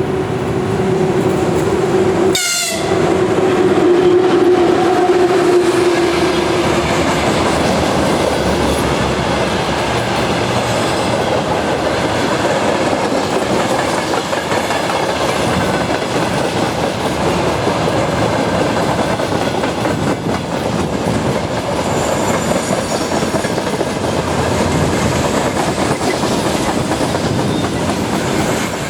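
VL10U electric locomotive sounding a steady horn note for about seven seconds as it and its freight train pass close by. The wagons then run past with a continuous loud rush and wheels clacking over the rail joints, with a brief high wheel squeal a little after twenty seconds in.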